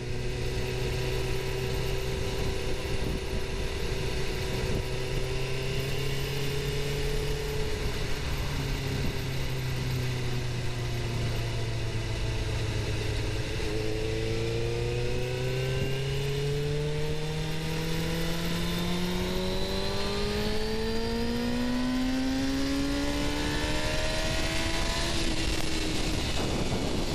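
Suzuki GSX-R750's inline-four engine heard from the moving bike, running at steady revs, then pulling harder with its pitch climbing steadily for about twelve seconds before dropping back near the end, over a steady rush of wind and road noise.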